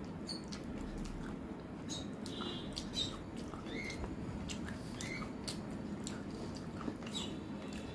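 A person chewing rice and chicken curry with wet smacking mouth noises, small clicks and short squeaks, over a steady low background noise.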